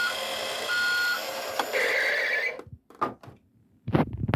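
A Road Rippers toy tow truck playing its reversing sound effect through its built-in speaker: a reversing beep repeating about once a second over a pulsing electronic engine rumble. The effect cuts off about two and a half seconds in, and another loud electronic clip starts near the end.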